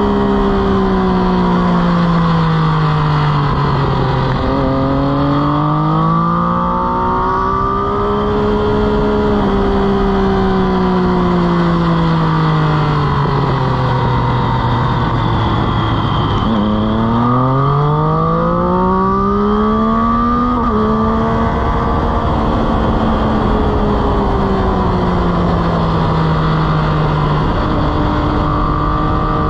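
Motorcycle engine on a race track, its revs falling steadily as it slows for corners and climbing hard out of them. The pitch jumps up suddenly about four seconds in and near the end at downshifts, and drops once about two-thirds through at an upshift, over a steady rush of wind.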